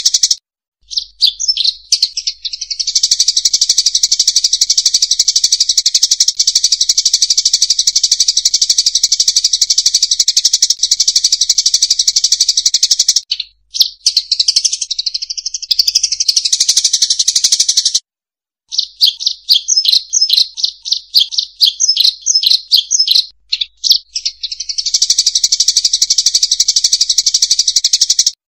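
Munia (emprit sawah) lure call: a loud, high-pitched, continuous chattering trill. Brief silences break it twice. In the second half it changes to a run of quick separate chirps before the dense chatter resumes.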